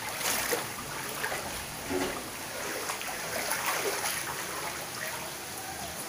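Rainwater flowing and trickling into a house, a steady wash of running water with small splashes.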